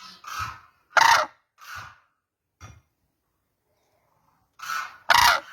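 Cranes calling: about seven short, harsh calls in irregular bursts, the loudest about a second in and another near the end, with a pause of over a second between them.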